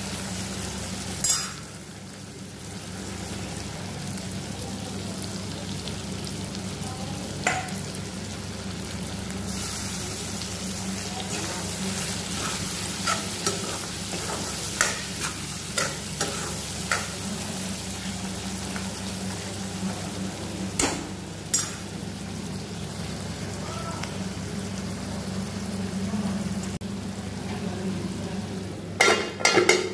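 Pork, onions and potato sizzling in oil in a metal kadai, stirred with a metal spatula that clinks and scrapes against the pan now and then. A few louder knocks of the spatula on the pan come near the end.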